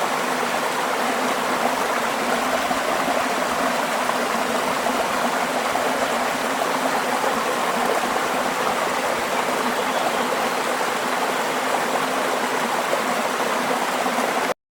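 Steady rush of flowing water, even and unbroken, cutting off abruptly near the end.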